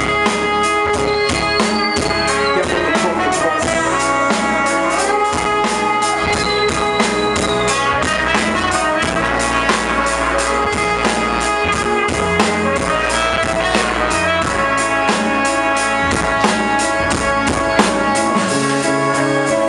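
Live band playing an instrumental break: a drum kit keeps a steady beat under sustained pitched instruments, with a few sliding notes high up.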